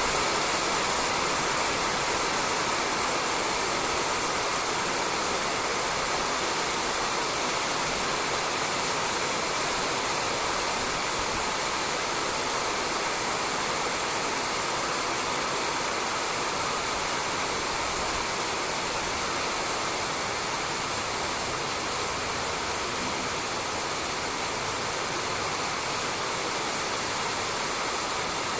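Steady rain falling on a roof, an even hiss without separate drops standing out.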